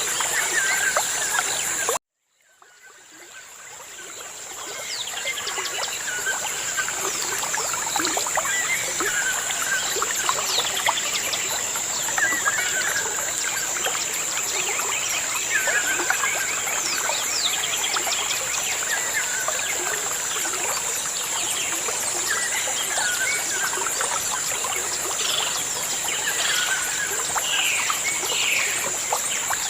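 Many small birds chirping and calling, with short repeated calls over a steady high hiss. The sound cuts out suddenly about two seconds in and fades back up over the next few seconds.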